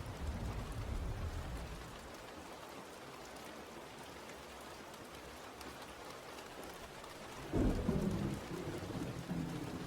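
Steady rain falling, with low rolling thunder fading over the first couple of seconds. A louder thunder rumble breaks in suddenly about three-quarters of the way through and keeps rolling.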